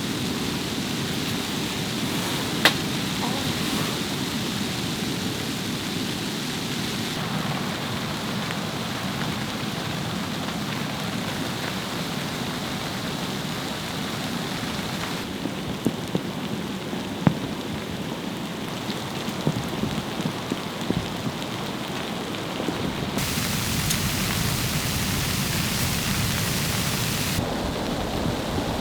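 Steady noise of a snowstorm, with a few sharp clicks and knocks. Its character changes abruptly several times, brighter or duller, as if cut between takes.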